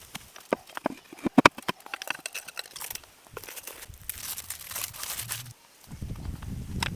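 Crunching and crackling in quick succession, with some louder snaps in the second second. A rougher rushing noise follows, then a low rumble near the end.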